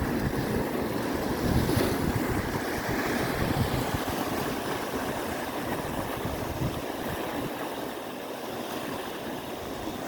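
Wind gusting on the microphone over a steady wash of ocean surf.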